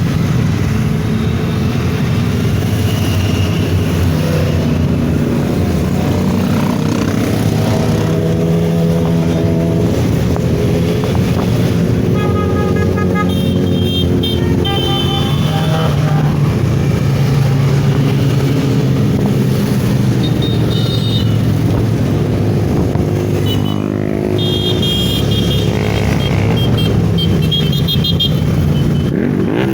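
Motorcycle engines running steadily, with vehicle horns tooting on and off in the second half.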